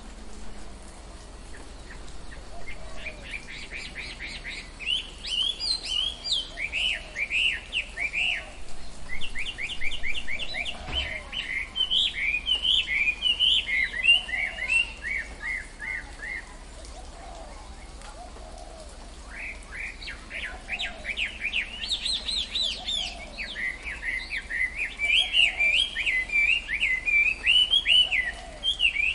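Songbirds singing in long runs of rapid, repeated chirps, in two bouts with a few seconds' pause between them.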